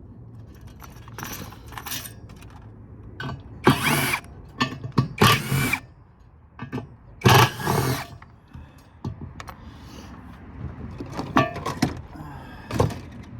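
Power driver running in short bursts, about seven in all, backing screws out of a metal chassis. A motor whine rises and falls in the louder bursts.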